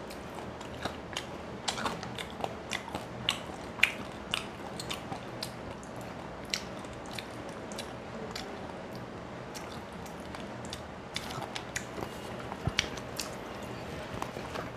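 Close chewing and biting through the bony tail and fin of a cooked rohu fish: many sharp crunches and crackles in the first six seconds, a quieter stretch, then another cluster of crunches near the end.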